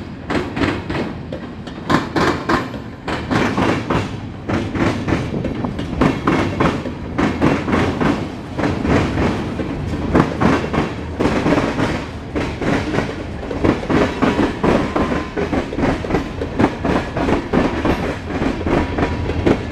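Freight cars of a slowly shoving train rolling past, their wheels clicking and clattering over the rail joints in a steady clickety-clack over a low rumble.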